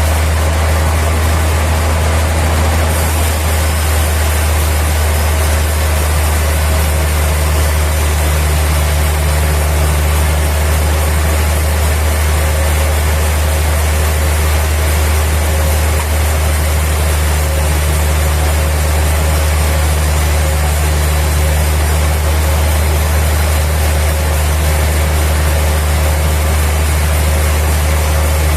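Sawmill machinery running steadily: a loud, unbroken low engine drone with an even mechanical noise over it, with no change in load.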